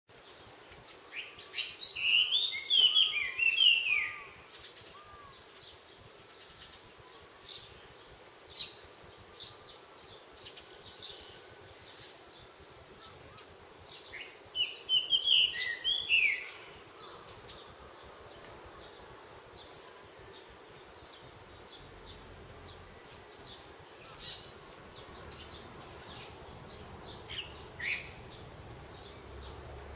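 Wild songbirds singing: two loud bursts of quick, warbling song about twelve seconds apart, with short scattered chirps in between and after.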